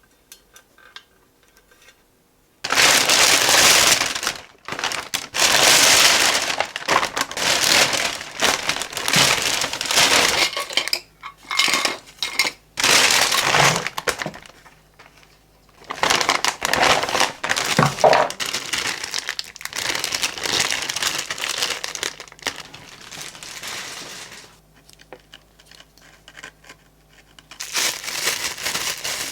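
Packaging crinkling and rustling as it is handled, in loud irregular bursts with short pauses, starting suddenly a few seconds in.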